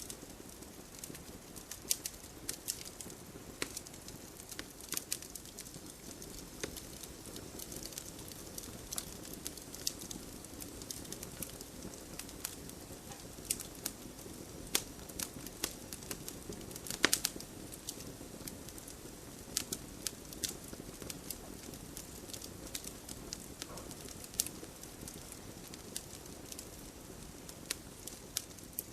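Wood campfire crackling, with irregular sharp pops and snaps over a soft steady hiss of burning. A cluster of louder pops comes a little past halfway.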